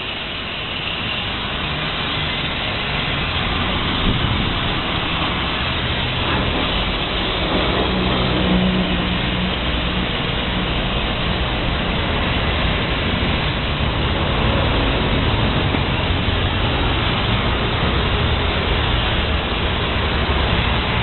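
Steady vehicle noise: a low rumble under an even hiss, growing a little louder over the first few seconds.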